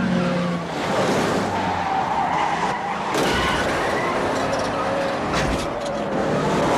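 Car engine revving hard under acceleration, with tyres squealing and skidding. A few sharp bangs come in the second half.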